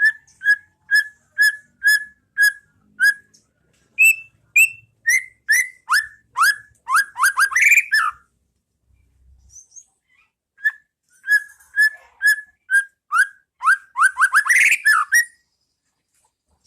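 White-rumped shama (murai batu) singing. A run of clear, evenly spaced whistled notes, about two a second, speeds up into fast downward-sweeping notes. After a pause of about two seconds, the same phrase comes again.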